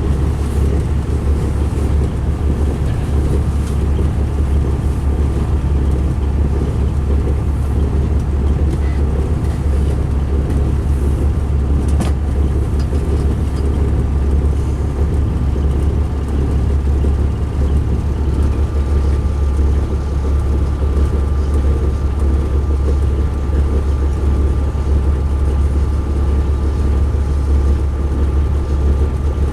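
2005 MCI D4500 motor coach's diesel engine running, a steady deep rumble heard from inside the coach, which sounds rough and rumbly. A thin steady whine joins a little past halfway, and there is a single click near the middle.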